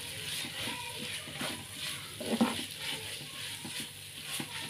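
Diced chicken breast sizzling as it is stir-fried in spice paste, with a few scrapes and knocks of the stirring utensil against the pan, the loudest about two and a half seconds in.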